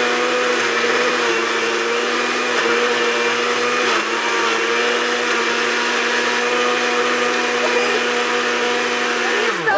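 Countertop blender running steadily on its smoothie setting, churning a milk and chocolate-powder mix. Its motor winds down, falling in pitch, near the end.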